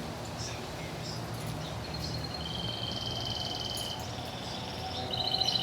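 Pet parrot giving high, drawn-out whistling calls: one held for about two seconds, then a louder one starting near the end. A low steady hum runs underneath.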